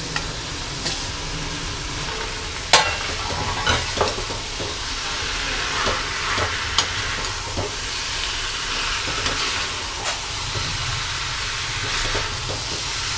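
Potatoes and pointed gourd (parwal) sizzling in hot oil and masala in a metal kadai while a metal slotted spoon stirs them, scraping and clicking against the pan. The steady sizzle runs under the clicks, with one sharp clank about three seconds in.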